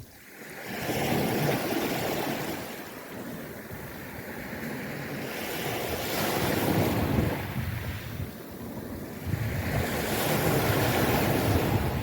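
Waves washing onto the shore, swelling and falling back three times, with wind buffeting the microphone.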